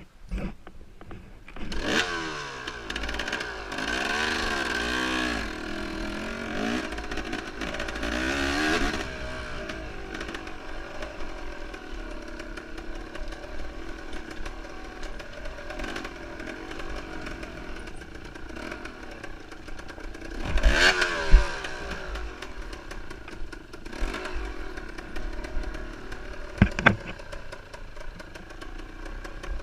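Off-road enduro motorcycle engine revving up and down repeatedly, then running more steadily, with rattling and knocks from the bike over rough ground; the loudest knocks come about 21 and 27 seconds in.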